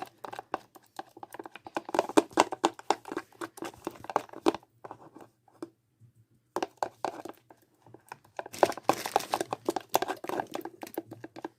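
A spoon stirring sticky homemade slime of glue and detergent in a bowl: rapid wet clicking and squelching, pausing for a couple of seconds about halfway through, then resuming.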